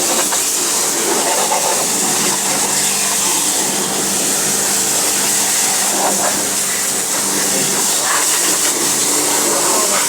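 A pressure-washer jet spraying water over a car's engine bay: a steady, loud, hissing rush, with a steady low hum underneath.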